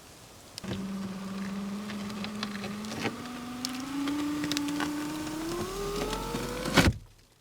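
A motor running with a steady hum that rises slowly in pitch over several seconds, with scattered clicks, then cuts off suddenly with a sharp click near the end.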